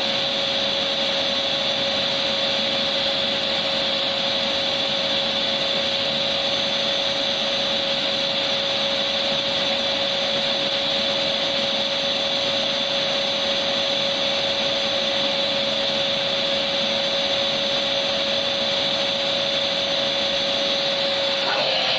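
Electric vacuum cleaner running steadily: a dense, even rushing noise with a constant motor whine. Just before the end the whine dips slightly in pitch and the tone of the noise shifts.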